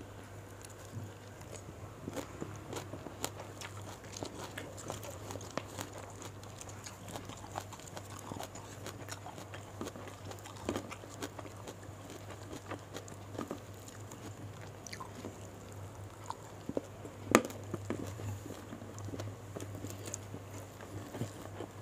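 Close-miked chewing and biting of raw leafy greens, rice and fried gourami, with many short wet mouth clicks and crunches and one louder click about 17 seconds in. A low steady hum runs beneath.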